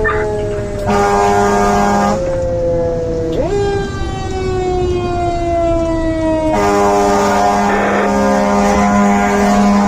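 Fire engine's air horn sounding in two long blasts, about a second in and again from about six and a half seconds in, over its siren, which winds slowly down and spins back up about three and a half seconds in.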